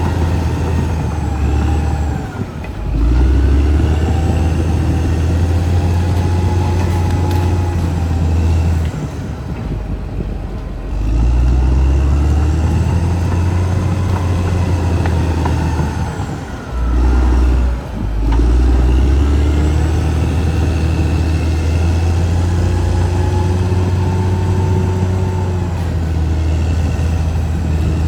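Caterpillar D6R XL bulldozer's diesel engine working under load, swelling and easing several times as the blade pushes, with two brief drops in power along the way.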